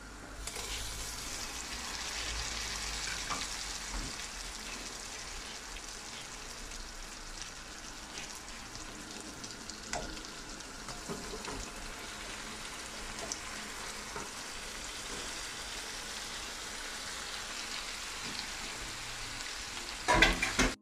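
Hot oil and onion masala sizzling in a wok as boiled potatoes, carrots and wet, freshly washed vegetables are tipped in, the sizzle starting about half a second in and running steadily. A few sharp clicks of the metal bowl and colander against the pan, and a brief louder burst near the end.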